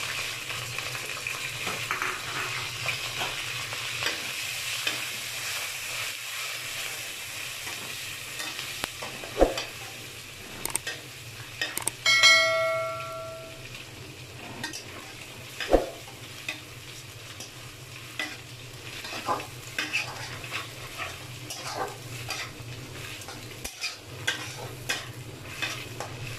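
Chicken, egg and chopped garlic and ginger sizzling in hot oil in a metal wok, stirred and scraped with a slotted metal spatula that knocks against the pan now and then. About halfway through, a short bell-like chime rings.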